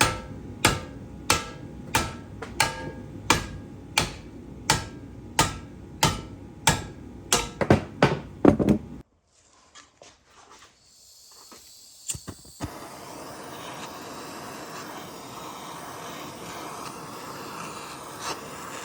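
Hammer blows on a metal suspension part, struck about one and a half times a second with a short ring after each, quickening a little before they stop about halfway through. A few clicks follow, then a steady low hiss.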